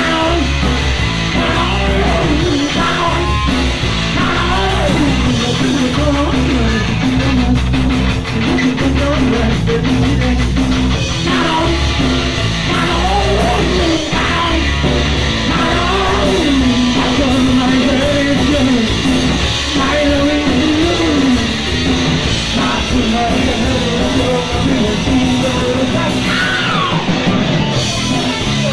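Punk rock band playing: distorted electric guitars, bass and drums, with sung and shouted vocals.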